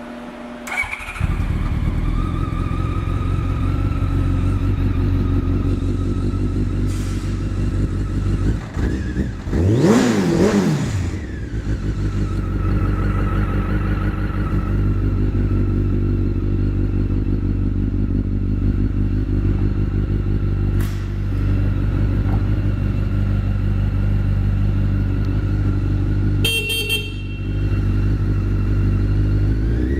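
Honda CBR1100XX Blackbird's inline-four engine starting about a second in, then idling steadily. The throttle is blipped once about ten seconds in and again at the very end. A brief high-pitched tone sounds about 27 seconds in.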